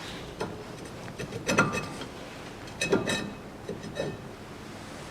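Metal clanks and clinks from a removed rear brake drum and brake parts being handled: a handful of separate knocks, each with a short metallic ring, the loudest about a second and a half in and around three seconds in.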